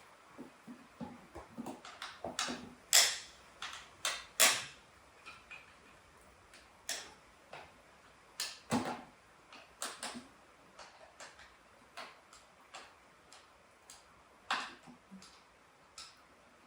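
Irregular clicks and knocks of hand tools and metal parts as the enduro bike is taken apart. The two loudest knocks come about three and four and a half seconds in.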